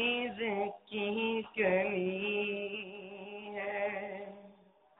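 Male voice singing an Urdu naat, a few short broken phrases, then one long held note with a wavering pitch that fades out shortly before the end.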